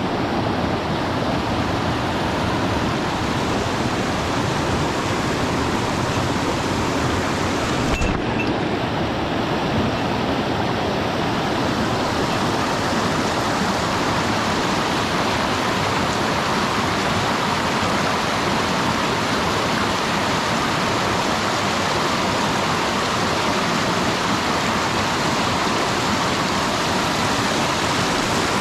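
Mountain stream water rushing steadily, with a brief click about eight seconds in.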